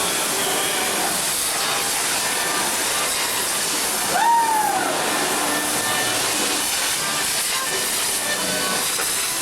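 Steady noisy hubbub of a street party crowd, with one short whistle that rises and then falls about four seconds in.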